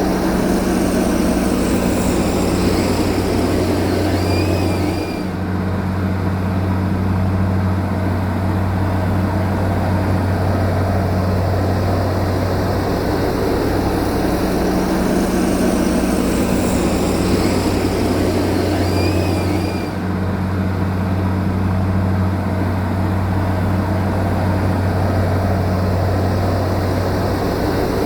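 Heavy earth-moving machine's diesel engine running steadily with a low hum. The same stretch of sound repeats about every 15 seconds, as a looped track does, with a brief dip in level each time.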